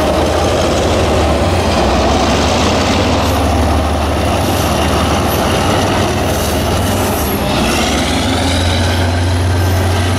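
Train running on the track, with a steady low rumble throughout and a high wheel squeal about eight seconds in.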